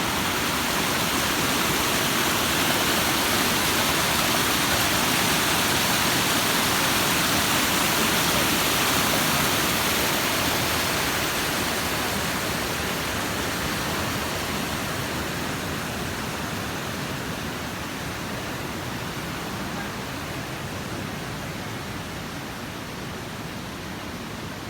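Waterfall rushing steadily, growing louder for the first several seconds, then slowly fading.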